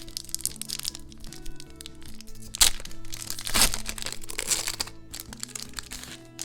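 Crinkly packaging being handled and crumpled in the hands, with a sharp crack about two and a half seconds in and a denser stretch of crinkling just after, over soft background music.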